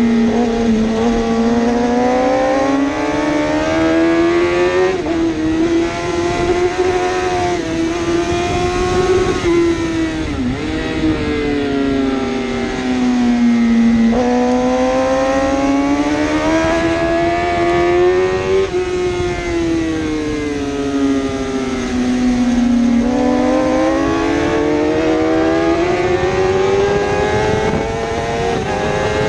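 A 1000cc superbike engine running hard without a break, its pitch climbing and falling in long sweeps as the throttle opens and closes. A few sudden short dips in pitch break the sweeps.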